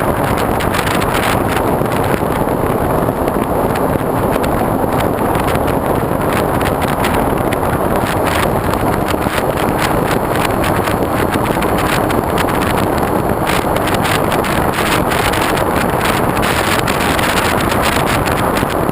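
Steady rush of wind buffeting the microphone of a GoPro mounted on the wing of a foam RC airplane in flight.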